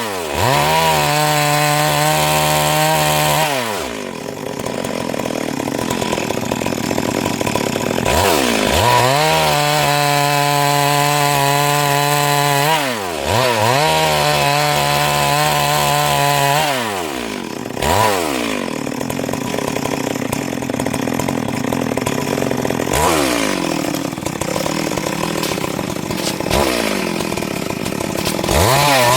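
Stihl MS 382 two-stroke chainsaw running and cutting wood. It repeatedly climbs to a high, steady full-throttle pitch, then drops sharply in pitch and runs lower and unevenly for a few seconds before revving up again.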